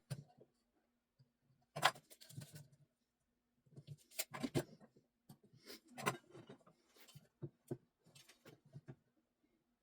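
Faint, scattered light clicks and short scrapes of a pencil and ruler being handled on a wooden leg blank while marking out layout lines, over a faint steady low hum.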